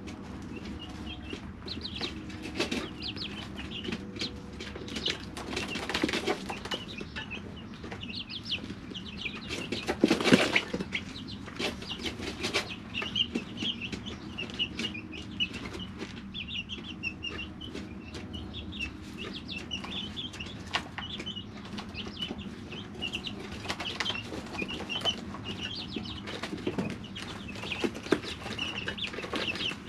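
Three-week-old chicks peeping steadily in a brooder, with many small clicks of pecking and scratching in the bedding. A brief louder flurry of rustling and wing flapping comes about ten seconds in, with a smaller one a few seconds earlier.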